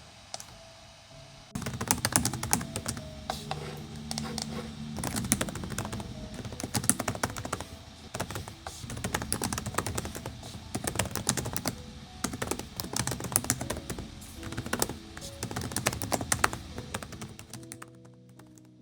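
A quick, dense run of light clicks and taps over soft background music, starting about a second and a half in and dying away near the end.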